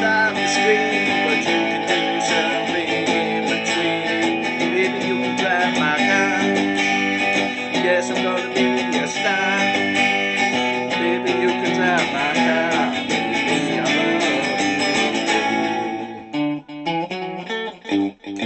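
Guitar music, strummed and plucked guitars playing together. About sixteen seconds in, the full sound thins to sparser separate notes.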